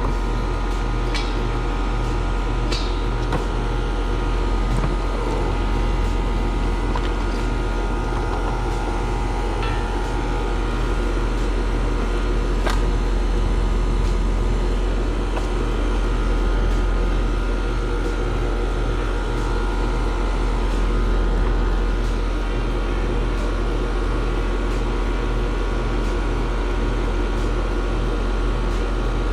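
Outdoor condensing unit of an Amana split-system air conditioner running steadily on its newly replaced compressor: a constant low hum with the condenser fan's rush, plus a few faint clicks. The unit sounds normal.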